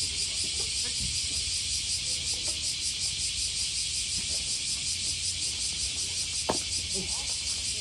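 Insects chirping in a steady high drone that pulses about four to five times a second. Faint distant voices and a single sharp knock about six and a half seconds in sit beneath it.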